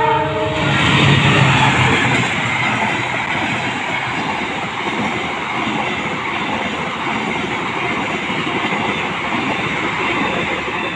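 The last of a locomotive horn blast, cutting off within the first half second. Then the Argo Bromo Anggrek express's passenger coaches pass close by: a steady, loud rush and rumble of steel wheels on the rails.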